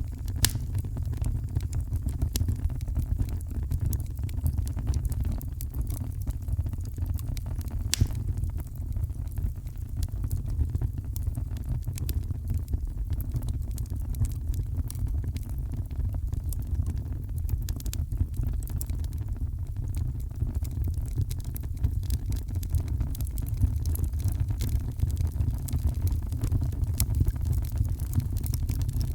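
Steady heavy rain making a deep, even rumble, with scattered sharp crackles and pops from a wood fire; two louder pops come just after the start and about eight seconds in.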